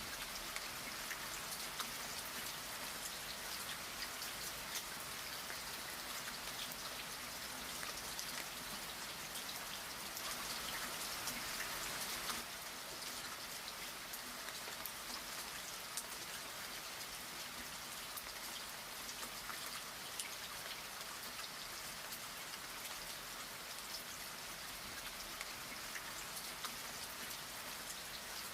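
Steady rain pattering, full of fine drop ticks. It gets slightly quieter about twelve seconds in.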